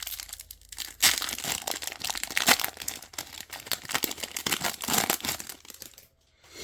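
Plastic-foil trading card pack wrapper crinkling and tearing as it is ripped open by hand. The dense crackling starts sharply about a second in and stops shortly before the end.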